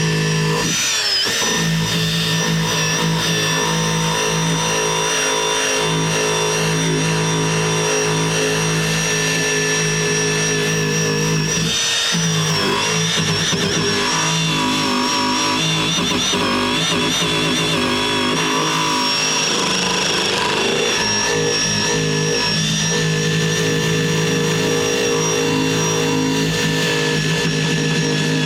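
Power wire brush spinning against a rusty metal deck bracket to clean it back to bare metal. It runs steadily, with two brief dips about a second in and about twelve seconds in.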